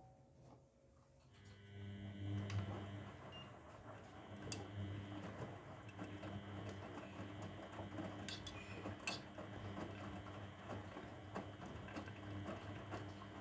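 Grundig washing machine starting up about a second in: a steady motor hum with occasional clicks and knocks over it.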